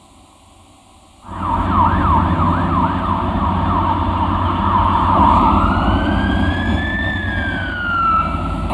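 Emergency vehicle siren that starts suddenly about a second in, first in a fast yelp of about three sweeps a second, then in a slow wail that rises and falls, over a heavy low rumble.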